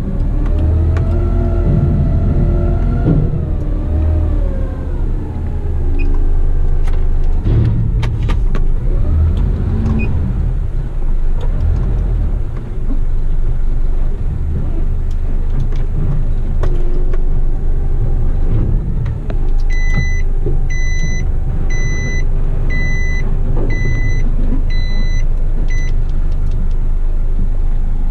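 Heavy rigid truck's engine running with a steady low rumble, its pitch rising and falling in the first few seconds. About twenty seconds in, a beeper starts sounding about once a second, typical of a truck's reversing alarm.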